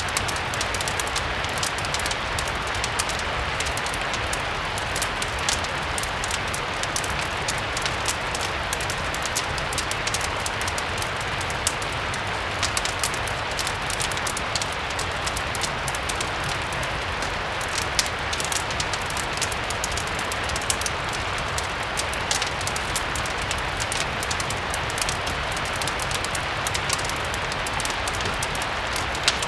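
Steady rain with a low rumble underneath, mixed with a fireplace crackling in frequent small sharp pops.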